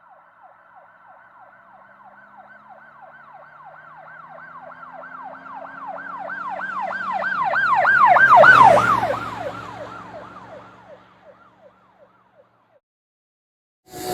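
Emergency vehicle siren in a fast wailing yelp of about three sweeps a second, with its engine running underneath. It passes by: it grows louder to a peak a little past halfway, drops in pitch as it goes by, and fades away.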